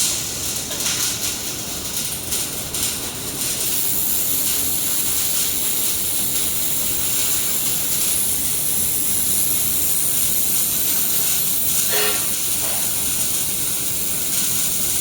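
Air-cooled handheld laser welder running a weld: a steady hiss of shielding gas from the torch, with crackling in the first few seconds and a brief click near the end.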